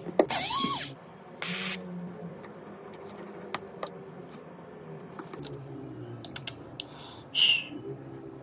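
Light clicks and taps of small tools and fingers working on a smartphone, with two short hissing bursts near the start and a brief squeak near the end.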